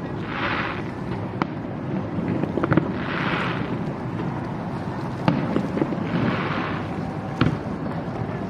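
Fireworks display going off: a continuous low rumble of bursts, with about four sharp bangs and three short hissing bursts spaced a few seconds apart.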